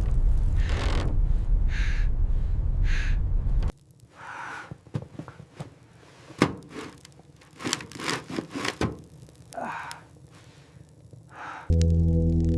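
A loud, deep rumbling noise that cuts off suddenly a few seconds in. Then several sharp knocks and thunks with short scraping sounds.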